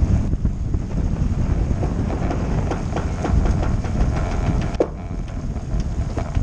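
Wind buffeting the microphone aboard a small sailing boat, with water rushing along the hull. A run of light knocks and rattles from the boat comes in the middle, then a single short sharp knock.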